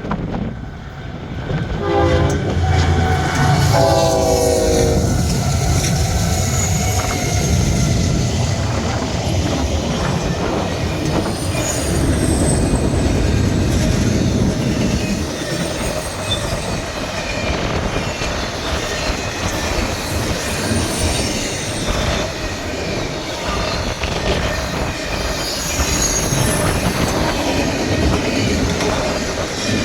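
A freight train sounds its horn in two blasts, a short one about two seconds in and a longer one at about four seconds that falls slightly in pitch. The train then passes close by with a steady rumble of rolling cars, wheel clatter and squeal.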